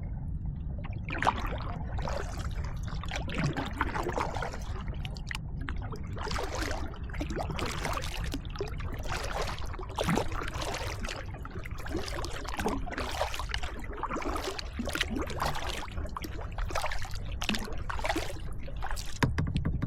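Kayak paddle strokes dipping and splashing in the water, about one stroke a second, over a steady low rumble.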